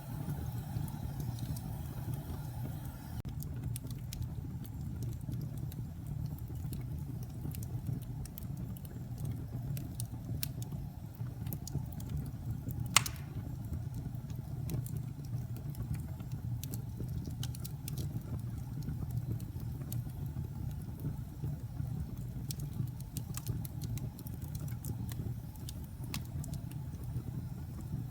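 Wood fire burning in a fireplace: a steady low rumble of flames with scattered small crackles, and one loud pop about halfway through.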